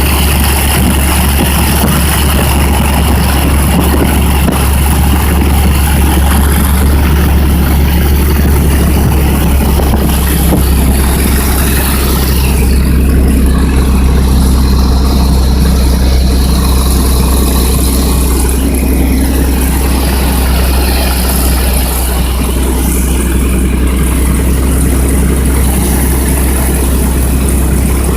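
Small piston airplane's engine and propeller running steadily, a loud, unbroken drone heard from inside the cabin.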